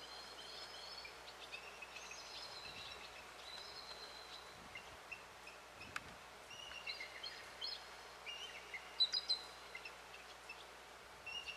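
Songbirds chirping and twittering in short high notes over a faint steady outdoor hiss, with a louder flurry of chirps about nine seconds in and a single small click about six seconds in.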